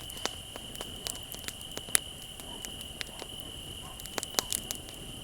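Wood bonfire crackling with irregular sharp pops, the loudest about two seconds in, over a steady high trill of crickets.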